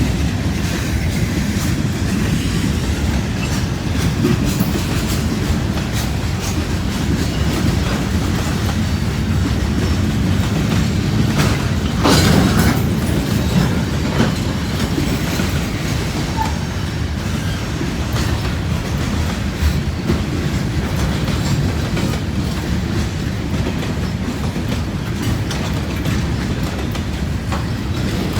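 Freight cars of a long mixed manifest train rolling past, a steady rumble with wheels clicking over the rail joints, briefly louder about twelve seconds in.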